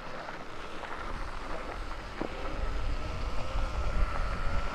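Electric dirt bike being ridden: a thin, steady motor whine over a low wind rumble on the microphone, the whine's pitch creeping slightly upward in the second half.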